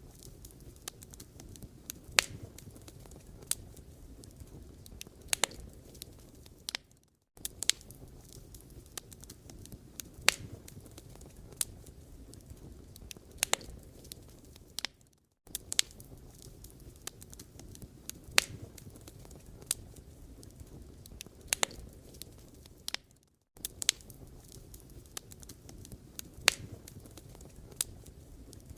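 Firewood burning with a low, steady rumble of flame and irregular sharp crackles and pops from the logs. The sound drops out to silence for a moment about every eight seconds.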